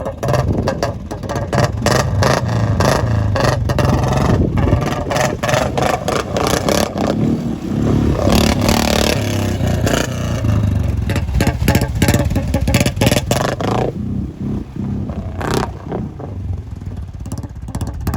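Royal Enfield Bullet 350's single-cylinder engine revving up and down under load as the motorcycle is ridden through knee-deep water and mud, with clattering throughout.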